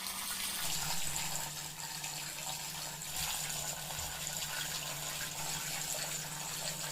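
Water trickling steadily from a small homemade tabletop waterfall fountain.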